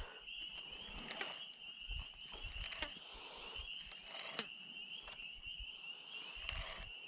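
Steady, high-pitched insect chirring, with a few short clicks and rustles from a fishing reel and line being handled while a tangle is worked out.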